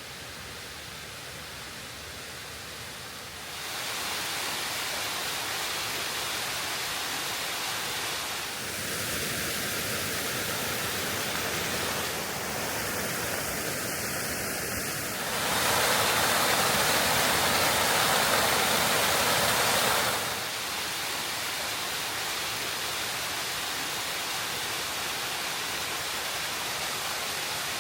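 Waterfall on a small mountain creek, a steady rush of falling water. It jumps in loudness several times and is loudest from about 15 to 20 seconds in.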